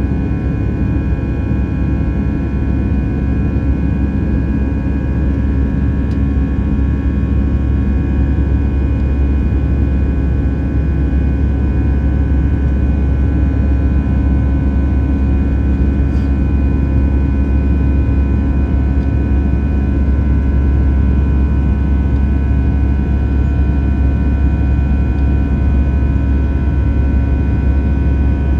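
Airbus A320-214's twin CFM56 turbofan engines at takeoff power, heard inside the cabin: a steady deep drone with several held whining tones, growing slightly louder partway through.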